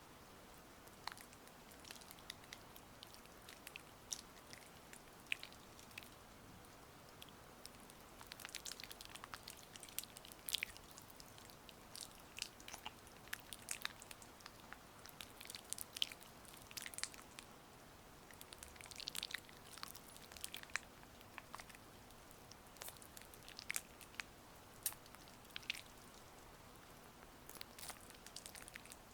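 Gua sha tool working over oiled skin, giving irregular wet, sticky clicks and smacks in scattered clusters. A faint steady hiss of rain runs underneath.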